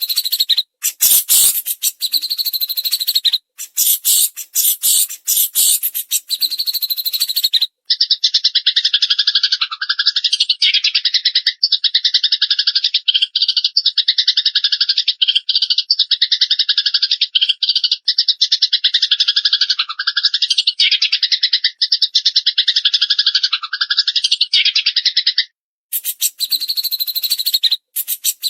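Songbird tutor recording of a Eurasian tree sparrow and a cililin: rapid, harsh chattering for the first several seconds, then one long unbroken fast trill of about seventeen seconds with a phrase that repeats about once a second, then the chattering again near the end.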